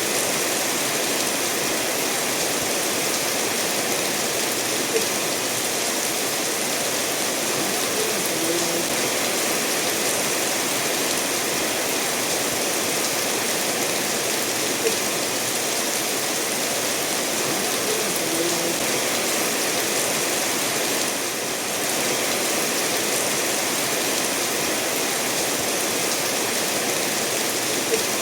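Steady rainfall mixed with a stream running over stones, an even, dense hiss of water with a few faint isolated drips standing out.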